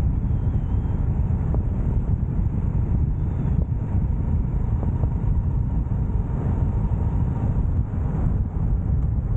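Wind buffeting the microphone of a moving motorcycle, a steady low rumble with road and engine noise underneath.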